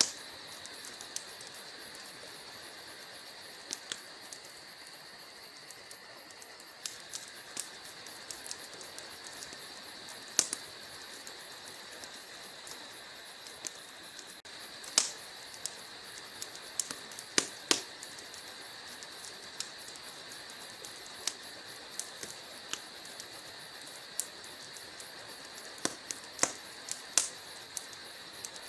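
Burning logs crackling in a fireplace: irregular sharp pops and snaps over a steady soft hiss, with a handful of louder snaps scattered among the small ones.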